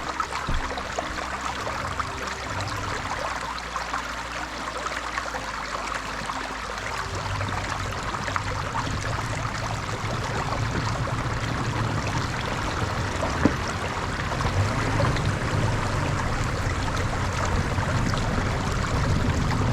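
4x4 vehicle moving slowly along a rocky, muddy trail: a low engine hum under a steady rushing, crackling noise of tyres on wet ground or water.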